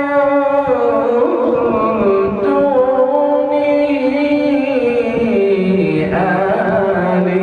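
A man reciting the Qur'an in a drawn-out melodic chant, holding long notes that glide and step gradually lower in pitch.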